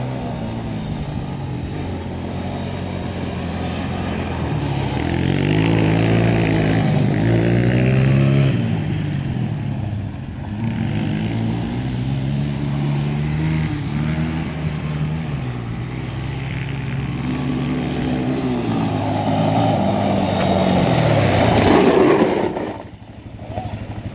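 Motocross motorcycles running on the track, engines revving up and falling back again and again as bikes go by. Near the end one passes close, the loudest moment, then drops away abruptly.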